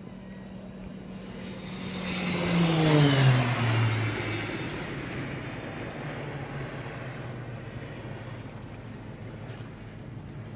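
An aircraft passes low overhead. Its engine noise swells to a loud peak about three seconds in, the pitch drops steeply as it goes by, and a steady rumble remains.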